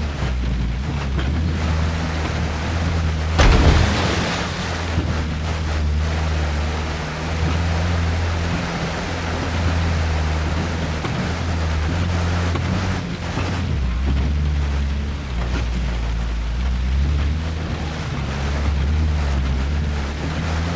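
UAZ off-roader's engine running steadily at low revs under a constant wash of water and wind noise on the microphone, with one loud burst of noise, a splash or knock, about three and a half seconds in.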